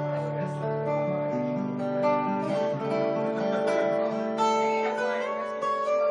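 Solo acoustic guitar playing an instrumental piece, with melody and bass notes ringing over one another.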